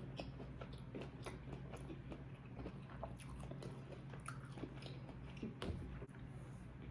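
A person chewing and biting food close to the microphone, many small irregular wet clicks, over a steady low hum.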